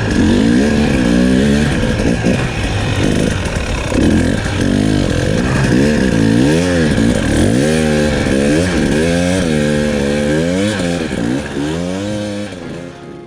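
KTM 300 two-stroke enduro dirt bike engine revving up and down over and over, its pitch rising and falling every second or so, dying away near the end.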